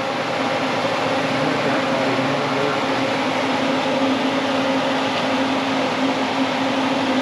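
A steady machine hum: an electric motor or fan running continuously, with one constant low tone under an even hiss.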